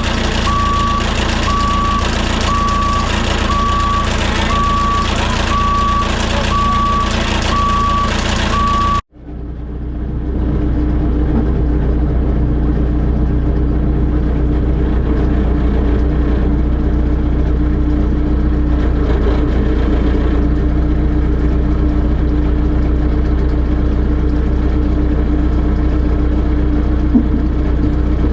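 Diesel engine of a telehandler running, with its reversing alarm beeping steadily a bit over once a second. About nine seconds in the sound cuts out abruptly and comes back as the engine running steadily with a constant hum and no beeping.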